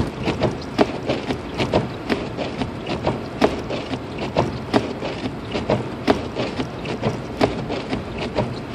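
Windshield wipers of a 2006 Lexus IS250 knocking and clicking about three times a second over the steady road rumble, labouring in the snowstorm and failing to clear the glass.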